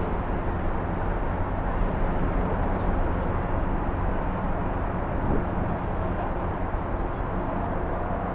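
Jet airliner engines, a steady low rumble without change.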